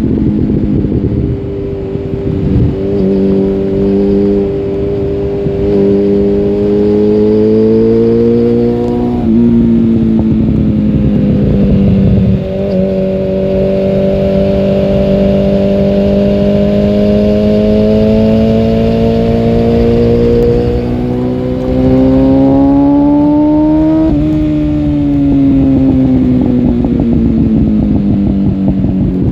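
Suzuki GSF 650 Bandit's inline-four engine through a Dominator oval exhaust with the dB-killer removed, riding under load. The engine pitch climbs steadily, drops sharply about nine seconds in, then climbs again in a long pull. It falls away after about twenty-four seconds as the bike slows and rises again near the end.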